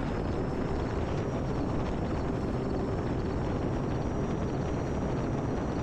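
Electric RC airplane (E-Flite Air Tractor) in flight: a faint, steady high whine of its brushless motor and propeller over a steady rush of wind on the microphone.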